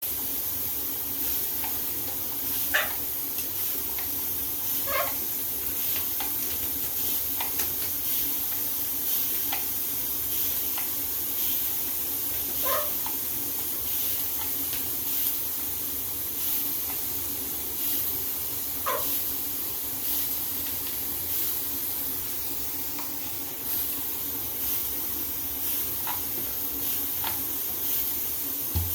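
Steady hiss of shower water spraying, with a blue-headed macaw giving a few short calls spaced several seconds apart.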